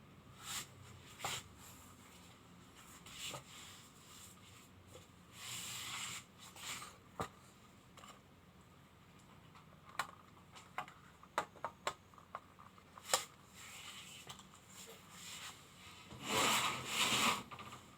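Hands handling and working an object: scattered light clicks and taps, with short rubbing, scraping passes, the longest and loudest near the end.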